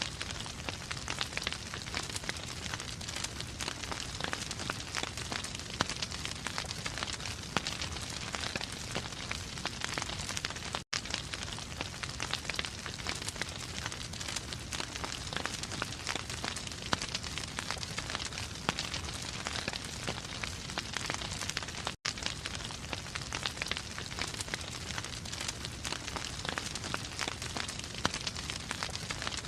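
Wood fire crackling steadily, a dense run of small pops and snaps over a soft hiss. The sound cuts out for an instant twice.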